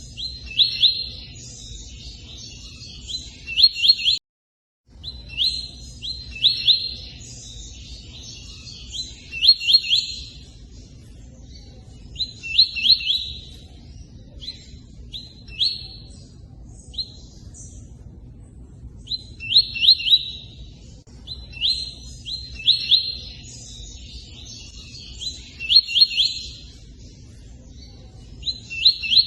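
Tui-tui bird singing in repeated short bursts of quick, high chirps, each burst a second or so long, with gaps between them, over the steady rush of running water. The sound cuts out for about half a second about four seconds in.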